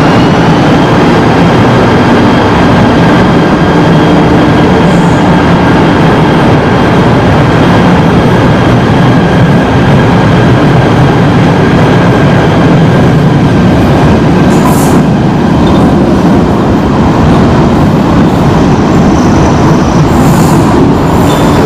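KTM Komuter electric train pulling away from the platform and running past: steady loud rumble of the cars and wheels on the rails, with a faint motor whine that rises and levels off about a second in. Two brief hisses, one past the middle and one near the end.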